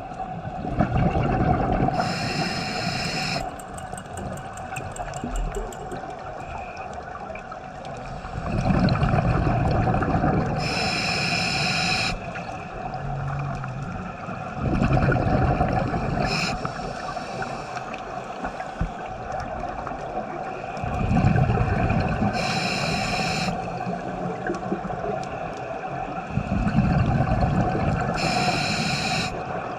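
Scuba diver breathing through a regulator underwater: a slow cycle repeating about every six seconds, alternating a hissing inhalation with a rumbling burst of exhaled bubbles, over a steady faint hum.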